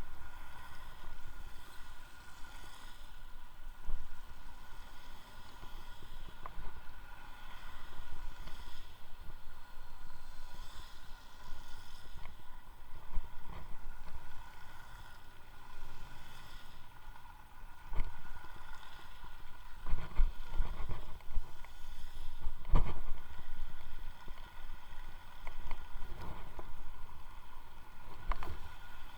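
Electric unicycle riding: wind rumbling on the microphone over a thin steady whine from the motor, with a few sharp thumps in the second half.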